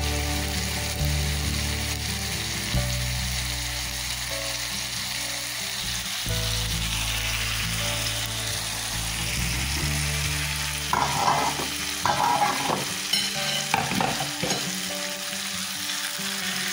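Sliced onion, sweet pepper and tomato sizzling steadily in oil in a non-stick frying pan, with a few short bursts of stirring and scraping in the pan about two-thirds of the way through.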